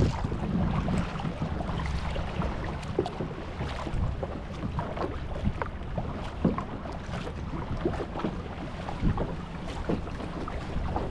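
Kayak out on open water: irregular small splashes and drips of water around the hull and paddle, over a steady low rumble of wind on the microphone.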